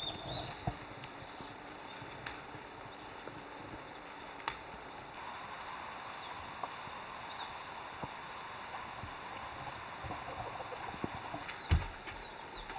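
A steady, high-pitched chorus of summer insects. It grows louder about five seconds in and drops off abruptly near the end. There are a few light clicks and a thump just before the end.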